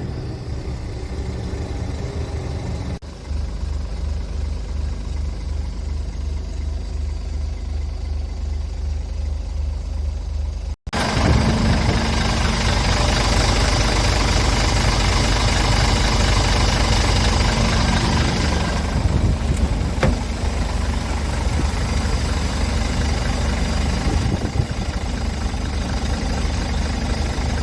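Scania R410 truck's 13-litre straight-six diesel idling steadily. Abrupt cuts come about three and eleven seconds in, with a brief dropout at the second, and after it the engine sounds louder and brighter.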